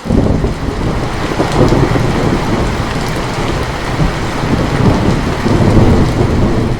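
Heavy rain with a long roll of thunder that breaks in suddenly and rumbles on, swelling a few times before easing off near the end.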